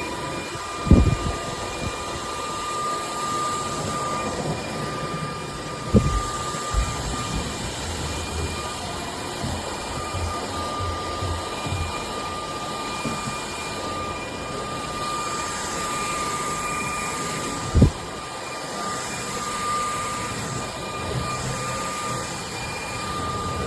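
UNINELL UV3 cordless stick vacuum running steadily, a constant motor whine over the rush of suction air. Three sharp knocks, about a second in, at six seconds and near eighteen seconds, as the floor head bumps something.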